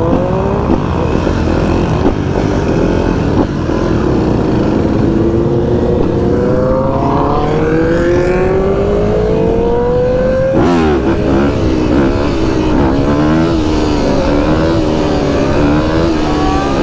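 Vehicle engine running under way over a steady low rumble, its pitch climbing slowly for about ten seconds as it speeds up, then dropping suddenly and wavering up and down as the throttle is let off and blipped.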